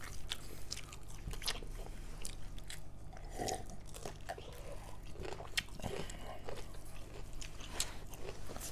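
People chewing and biting pork curry and rice, with many small irregular crunches and mouth clicks.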